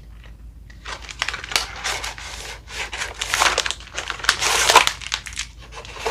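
Thin plastic packaging of a Skittles freezer pop crinkling in bursts as it is handled and opened, quiet for about the first second.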